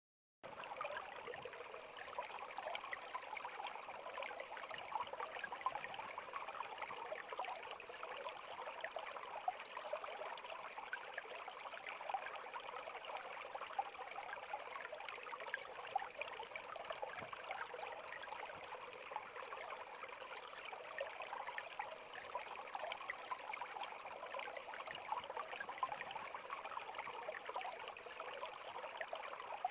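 River water flowing over rocks, a steady rushing with fine splashing and gurgling.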